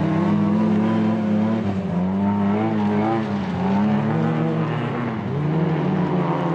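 Rally car engine running hard, its revs dropping and climbing again several times as the car lifts and accelerates.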